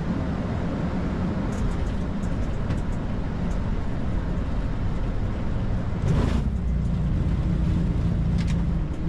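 Flight-deck noise of an Airbus A220-300 at touchdown and the start of the landing roll: a steady rumble of airflow and engines. About six seconds in there is a short burst of noise, after which the rumble is slightly louder.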